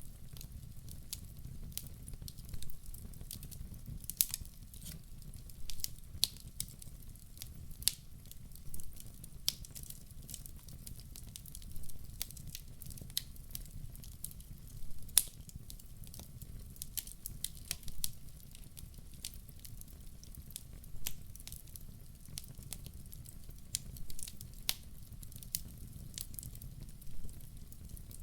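Wood fire crackling in a fireplace: irregular sharp snaps and pops, a few louder than the rest, over a low steady noise of the burning fire.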